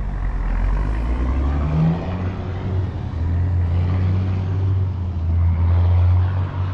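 A car engine running with a low, steady rumble that grows louder about three seconds in.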